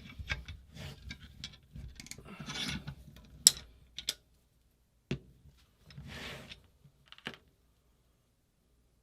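Small metal parts of a paintball marker being worked by hand: scraping and rubbing with scattered sharp clicks, the loudest click about three and a half seconds in.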